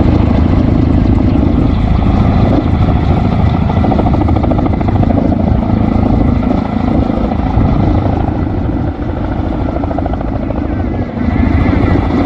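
Firefighting helicopter running close by: a loud, steady rotor and turbine sound with a fast, even beat of the blades.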